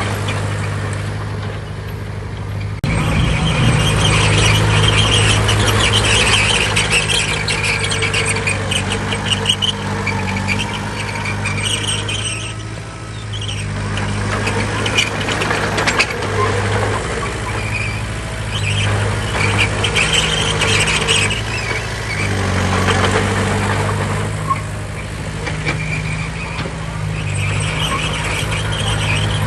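Heavy diesel earthmoving machinery running under load, its drone rising sharply about three seconds in, with high metallic squealing coming and going over it.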